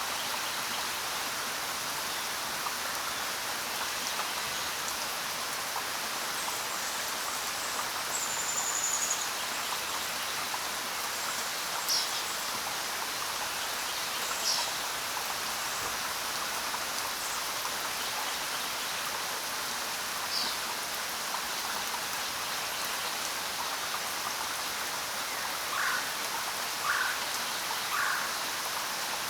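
Steady rain falling, with a few short bird chirps scattered through it and three lower bird calls in quick succession near the end.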